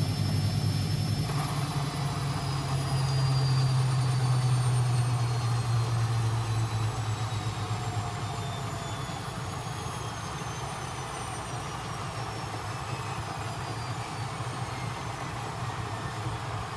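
Constructa Energy 1000s washing machine slowing down after a spin: the motor's whine falls steadily in pitch and the low drum hum fades over the first half. A steady rushing noise starts about a second in.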